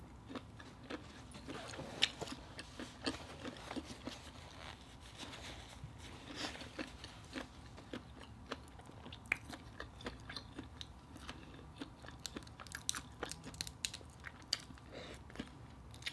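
Close-miked mouth sounds of someone eating cooked shrimp: quiet chewing with many small wet clicks and light crunches.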